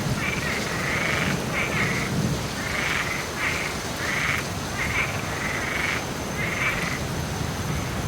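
Frogs croaking in a steady run of short calls, about one or two a second, over the even hiss of falling rain.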